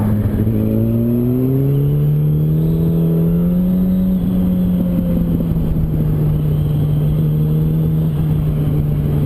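Yamaha R1's inline-four engine accelerating, its note rising over the first few seconds, then holding steady at a constant speed.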